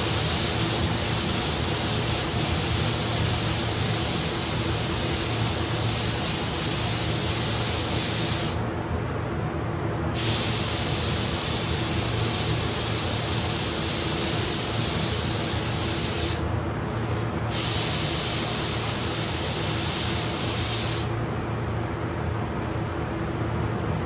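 Compressed-air paint spray gun hissing in long trigger pulls of several seconds each, with short breaks and one brief blip between passes, then stopping near the end. It is spraying blender over fresh clear coat to melt the new clear into the existing finish.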